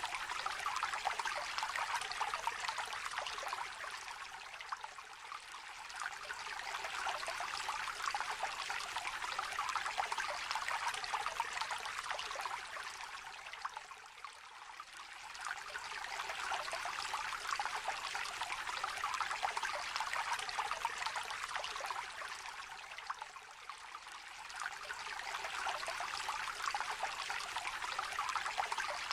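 A small river trickling and babbling over stones in a light, splashing stream. The flow eases off briefly about three times, roughly nine seconds apart.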